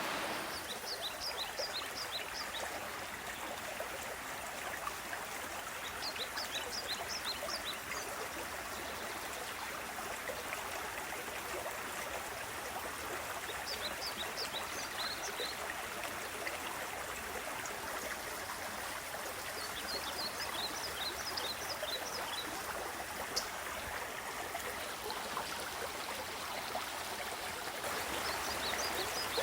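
A mountain creek's small waterfall rushing steadily. A songbird sings a short phrase of quick, high notes every six or seven seconds over it.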